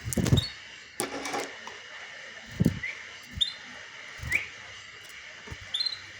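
A canary giving short, scattered rising chirps rather than full song, with several dull knocks and a brief rustle among them.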